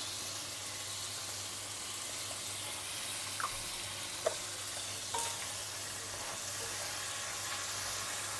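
Chicken and onion frying in sesame oil in a pan, sizzling steadily, with a few sharp clicks of the stirring utensil against the pan about three and a half, four and five seconds in.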